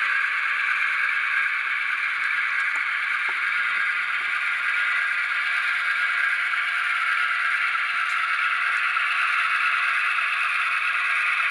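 Tsunami sound decoder in an HO-scale GP15-1 model playing a steady EMD 645 non-turbo diesel engine sound through the locomotive's tiny speaker, which gives it a thin, tinny tone with no bass.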